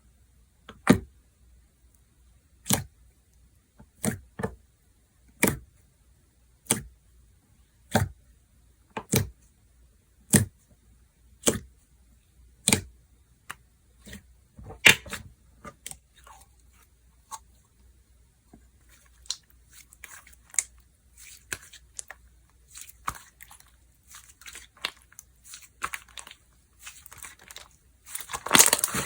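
Slime being pressed and stretched by hand, giving sharp pops a little over a second apart, then softer irregular crackling, and a louder crunchy burst near the end.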